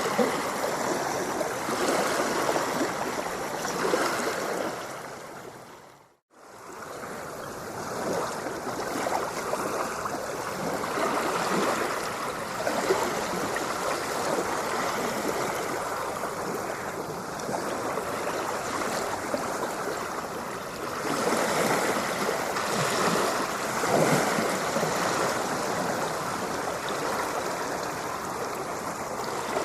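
Ocean waves washing, a continuous rush of water that swells and eases. About six seconds in it fades to near silence and returns within a second or two.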